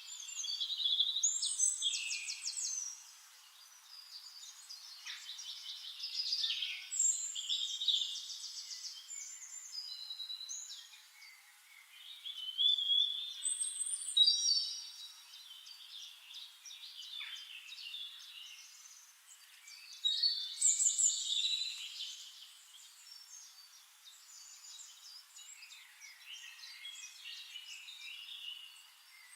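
Songbirds singing: bursts of high chirping and trilling phrases every few seconds, with quieter chirps in between.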